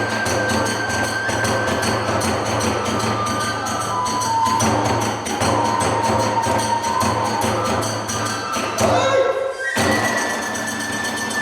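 Hiroshima-style kagura music: fast, driving taiko drum and hand-cymbal beats under a bamboo flute (kagura-bue) melody of held notes. The music breaks off abruptly a little before ten seconds in and resumes at once.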